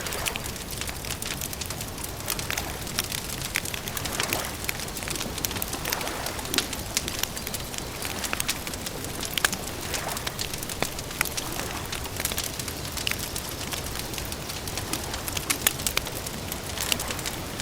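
Campfire crackling: frequent sharp pops and snaps over a steady hiss.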